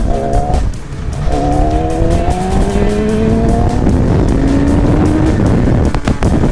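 Motorcycle engine accelerating, its pitch rising through the gears: a short rise, a brief drop about a second in, then a long steady climb, over a low rumble of wind and road noise.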